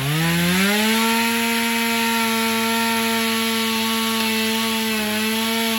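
Chainsaw throttled up, its pitch climbing fast in the first second, then held at a steady high whine at full revs, with a brief dip near the end.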